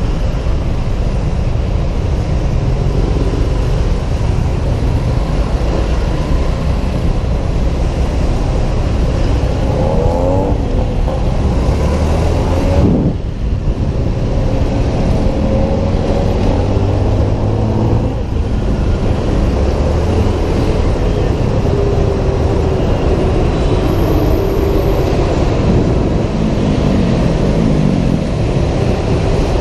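Honda PCX 125 scooter riding in city traffic: a steady rush of wind and road noise on the helmet-mounted camera, with engine pitch rising and falling as it speeds up and slows several times.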